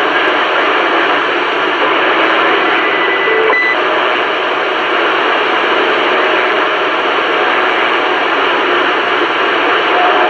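CB radio receiver putting out steady static hiss on a channel with no one talking. A brief high whistle sounds about three seconds in and ends with a faint click.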